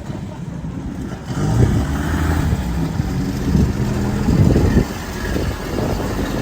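A truck engine running and revving, growing louder about a second in, its pitch rising and dropping several times.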